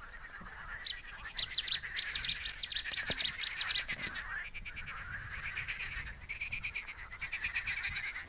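Wild birds singing: a run of sharp, quick chirps through the first half, then a fast, even trill through the second half, over a steady faint background chorus.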